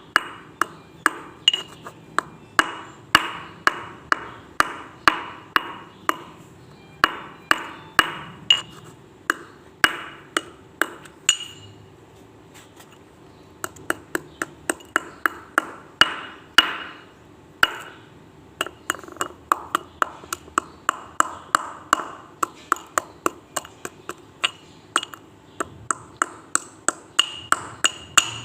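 Slate pencils being crushed: a fast series of sharp, brittle cracks, about two or three a second, with a pause of about two seconds near the middle.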